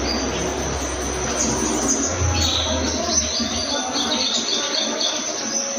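Birds chirping and twittering in short high notes over a steady insect-like buzz.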